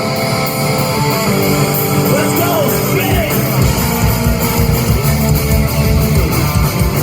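Rock band playing live, electric guitars to the fore over bass and drums, with some singing.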